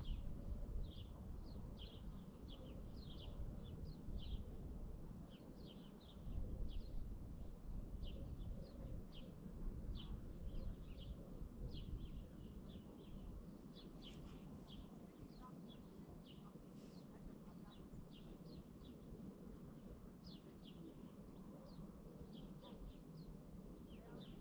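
Songbirds chirping: many short, high calls repeated throughout, over a low rumble that is louder in the first half.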